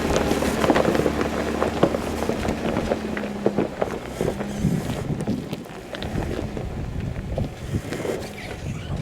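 Jeep Wrangler JK driving slowly over a rough trail: its engine runs low and steady, and its tires crunch over gravel and rocks with many scattered clicks and knocks. The engine note drops away about halfway through.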